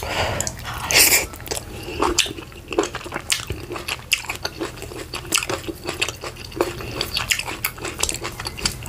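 Close-miked chewing of a mouthful of leafy vegetable soup eaten by hand, with many short wet smacks and clicks of the mouth, several a second. A steady low hum runs underneath.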